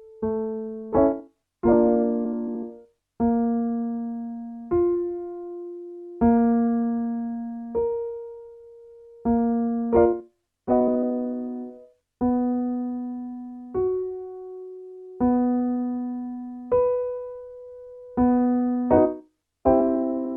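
Piano playing a vocal-exercise pattern: single notes struck and left to ring, stepping between a low note, the fifth above it and the octave, with a quick rolled chord marking each new repeat.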